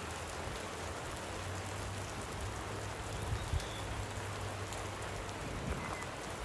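Light rain falling steadily, with scattered individual drops ticking close by over a faint low hum.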